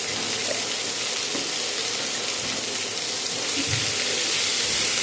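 Sliced onions and potatoes sizzling steadily in hot mustard oil in a kadai over high heat, with a wooden spatula starting to stir them near the end.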